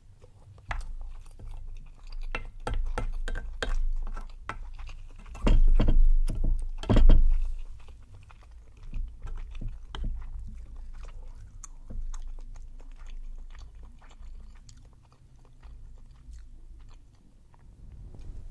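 Close-miked chewing of chewy Korean rice cakes (tteokbokki) in a cheesy, spicy sauce: irregular wet mouth clicks and smacks, loudest about five to seven seconds in. A wooden spoon scrapes the bowl in places.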